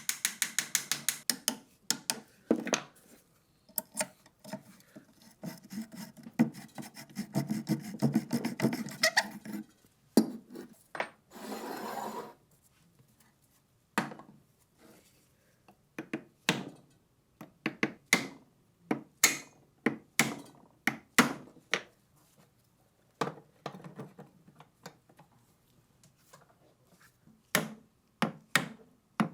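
Hand work on the rusty metal parts of an old ShKAS machine gun: a string of sharp taps and clicks, with a stretch of scraping about five to nine seconds in and a short burst of hiss-like noise a few seconds later.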